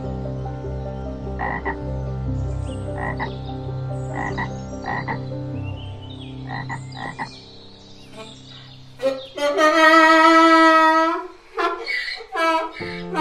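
Animal calls: a run of short calls, then one long, loud call about ten seconds in, followed by more short calls, over steady low tones.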